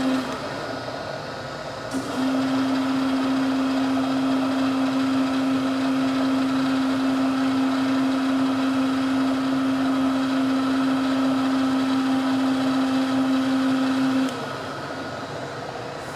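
Gallmeyer & Livingston No. 55 surface grinder running, with a steady motor hum that drops out briefly at the start, comes back about two seconds in and cuts off near the end, leaving the quieter run of the machine.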